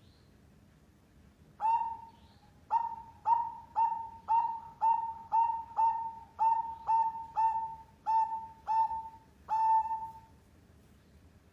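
Zebra dove (perkutut) cooing: a run of about fourteen short, clipped coo notes, about two a second, each starting sharply and settling on a low tone. The song starts about two seconds in and stops about ten seconds in.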